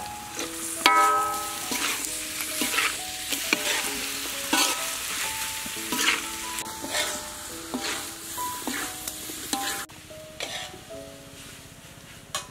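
Beef liver sizzling as it is stir-fried in a wok, with the metal spatula scraping and tossing the pieces in repeated strokes; the sizzle stops about ten seconds in. A soft background melody plays throughout.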